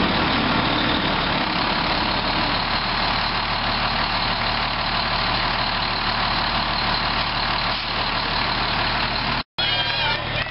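Motor vehicle engine running steadily with road noise. It cuts off abruptly near the end and gives way briefly to a different, thinner sound.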